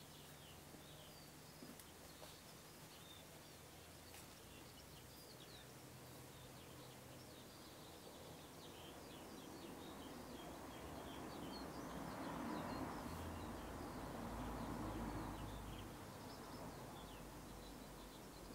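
Small birds chirping faintly, with a broad rumbling noise that swells up around the middle and fades away again.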